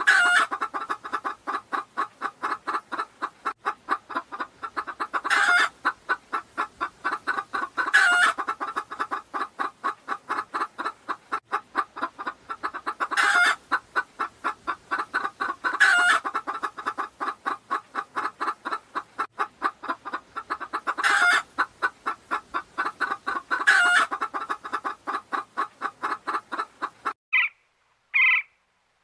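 Chicken clucking in a rapid, steady run of about five clucks a second, with a louder call every few seconds. It cuts off suddenly near the end.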